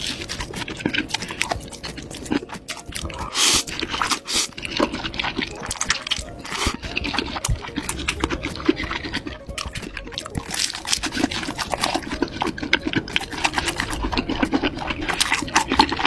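Close-miked eating: a person biting into a crispy fried, cheese-filled stick and chewing. The sound is a dense run of crunches and mouth clicks.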